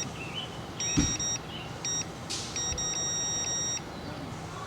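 Electronic beeps from a countertop oven's control panel being set: a beep of about half a second, a short beep, then a longer beep lasting about a second. A single knock sounds about a second in.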